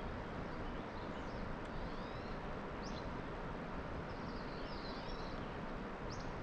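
Songbirds chirping in short, scattered calls over a steady hiss of outdoor background noise.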